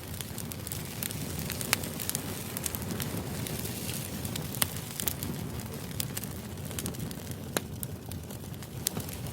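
Crackling fire ambience: a steady low rumble with irregular sharp pops and crackles.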